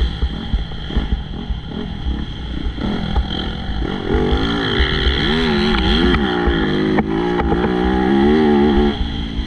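MX2 motocross bike engines racing, with wind buffeting the microphone. From about four seconds in, one bike's engine gets louder, revving up and down repeatedly, before falling away near the end.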